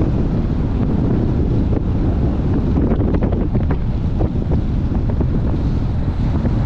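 Loud, steady wind buffeting the microphone of a chest-mounted camera on a moving bicycle, a continuous low rumble with brief crackles from gusts.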